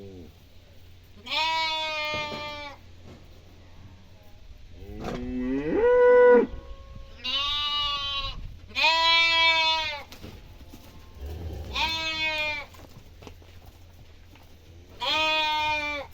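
Cattle mooing repeatedly: about six long calls a second or more each, one of them near the middle rising in pitch.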